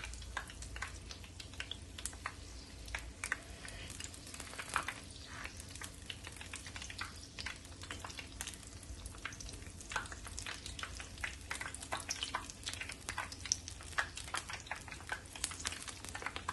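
Battered corn dogs frying in hot oil in a pan: a steady sizzle full of small irregular crackling pops, as they are turned with a slotted metal spoon.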